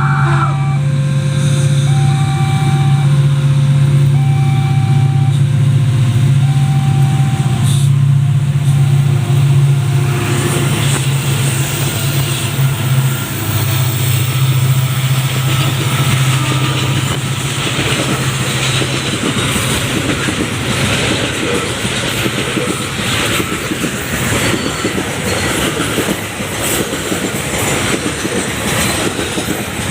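Diesel freight locomotive passing close with a loud, steady engine drone, while a warning alarm beeps in two alternating tones for about the first ten seconds. From about ten seconds in, the rumble and clickety-clack of wagon wheels over rail joints takes over as the engine drone fades out around twenty seconds in.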